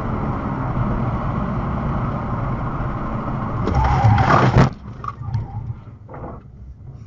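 Car engine and road noise, steady at first, then swelling louder about four seconds in with a brief higher tone before cutting off abruptly. Fainter scattered knocks and rustles follow.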